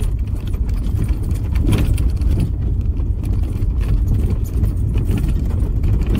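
Car driving on a graded dirt road: a steady low rumble of engine and tyres, with many small clicks and rattles throughout.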